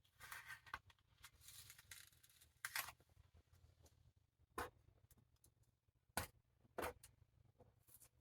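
Faint handling sounds of a book binding being worked on: soft paper rustling, then a few brief scrapes or clicks.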